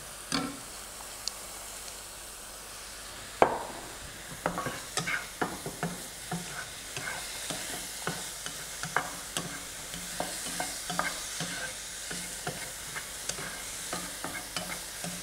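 Diced pineapple frying in oil in a non-stick pan, with a steady sizzle. About three seconds in it is stirred, with frequent clicks and scrapes of the utensil against the pan from then on.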